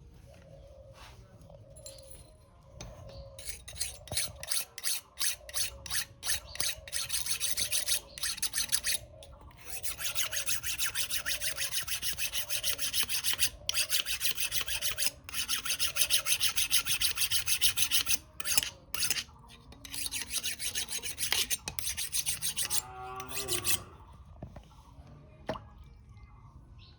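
Abrasive rasping on metal as the steel knife blank is worked, in quick strokes. It begins a couple of seconds in as separate short strokes, turns into longer runs with brief breaks, and stops a few seconds before the end.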